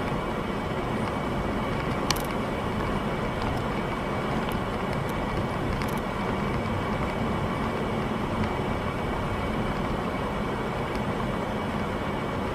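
Steady road and engine noise of a car driving, picked up by a dash camera, with one sharp click about two seconds in.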